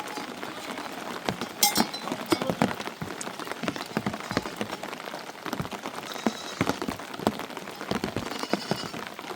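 Rain falling, a steady hiss full of irregular sharp taps, with one louder knock about two seconds in.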